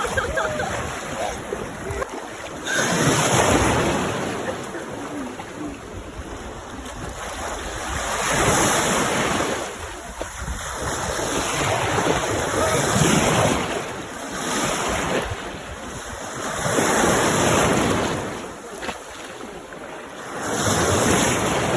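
Sea waves washing in and drawing back, swelling and fading about every four seconds.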